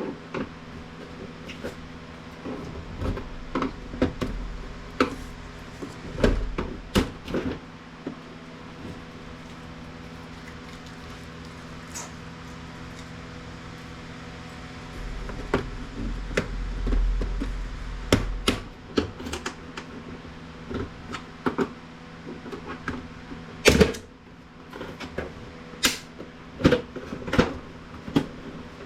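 Irregular clicks and knocks of an HP Envy Photo 7155 printer's plastic casing and parts being handled and pried apart during disassembly, with a few louder knocks near the end, over a steady low hum.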